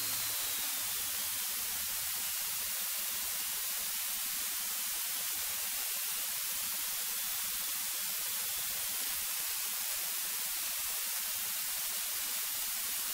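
Steady electrical hiss of the aircraft's intercom/headset audio feed, with no engine rumble coming through, and a faint high whistle that slides slowly downward in pitch during the first half.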